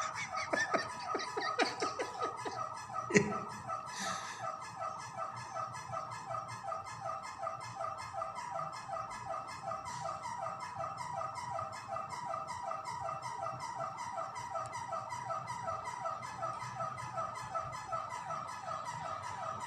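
Electric fan making a strange squeaking noise: a quick, even run of squeaks repeating over and over as it turns, with a sharp click about three seconds in.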